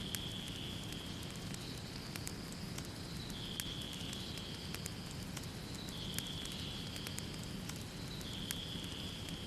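Wood fire in a fireplace crackling, with irregular sharp pops and snaps over a low steady rumble of the flames. A high, thin tone sounds for a second or two and comes back every two to three seconds.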